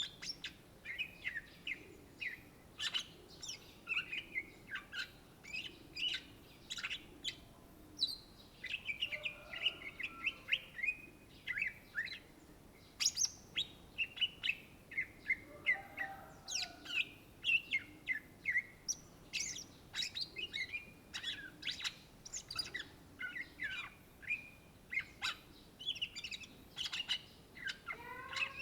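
Greater green leafbird (cucak ijo) singing continuously: a fast, varied stream of short sweeping whistles and chirps.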